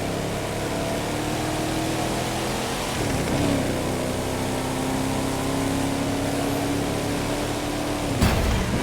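Muscle car's engine running under load, its pitch rising about three seconds in and holding nearly steady, then dropping sharply near the end with a brief burst of noise.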